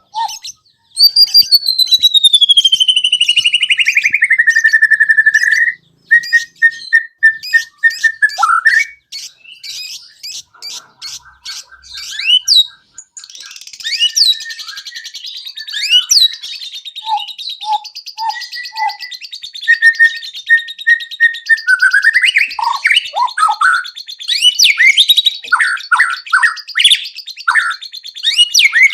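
White-rumped shama (murai batu) singing a long, varied song of learned and mimicked phrases. It opens with a long whistle sliding down in pitch, then runs on into repeated single notes, rapid clicking trills and quick swooping whistles.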